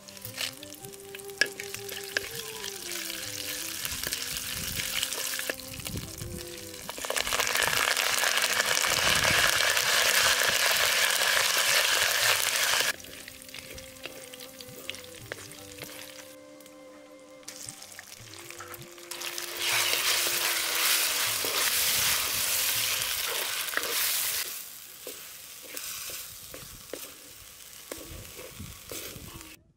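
Food frying in hot oil in a pan, sizzling. The sizzle is loudest in two long stretches, each of which stops abruptly, about 13 and about 24 seconds in. Quiet background music with a simple melody plays underneath.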